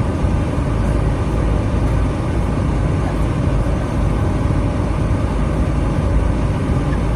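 Steady low rumble of a motor vehicle running, engine and road noise without a break.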